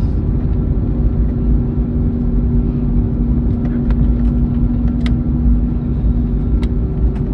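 Cabin noise of an Airbus A321neo rolling on the ground just after landing: a loud, steady low rumble with a steady hum that stops near the end, and a few faint clicks.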